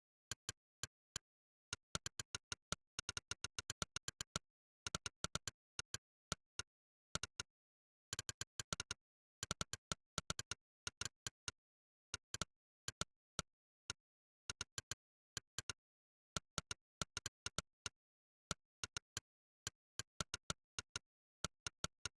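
Monkeytype's 'click' typing sound effect: a sharp synthetic click for each keystroke, coming in irregular bursts of several clicks a second with brief pauses between.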